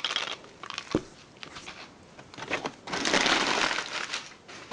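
Packing wrap being crumpled and pulled off wrapped toy train pieces: scattered crinkles, a short knock about a second in, then a long, dense crackling from about halfway.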